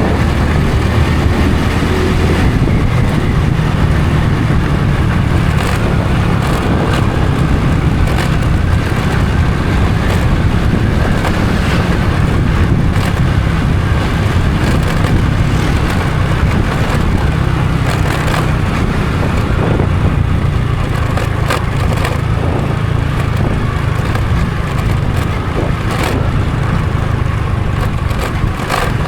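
Honda Supra X 125 FI's single-cylinder four-stroke engine running at a steady pace while riding, with a few short clicks along the way.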